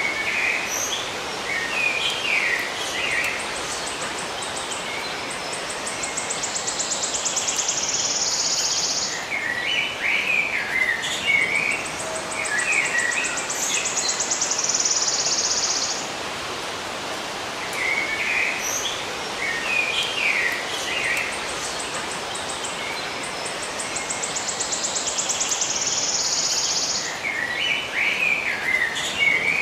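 Small birds chirping in short bursts, alternating with an insect's high, rapidly pulsing trill that builds for a few seconds and then cuts off abruptly, over a steady background hiss. The same few seconds of chirps and trill repeat about every ten seconds, three times over, as a loop.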